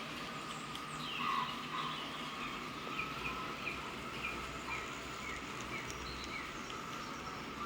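Bird chirping: a short falling chirp repeated about twice a second, over the steady whine of a model locomotive running on the layout.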